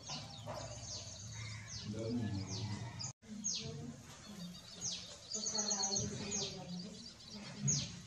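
Birds calling: sharp high notes that each sweep downward in pitch, repeated about every half second, with a fast high trill after about five seconds. The sound cuts out for an instant about three seconds in.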